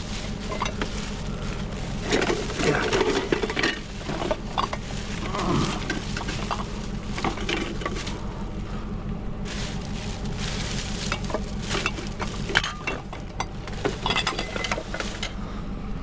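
Metal scrap being handled and sorted: irregular clinks, clanks and knocks of small metal parts and appliance pieces, over a steady low hum.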